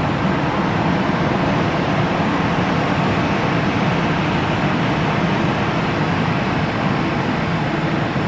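Jet airliner engines running with a steady noise that neither rises nor falls, over a thin steady high whistle.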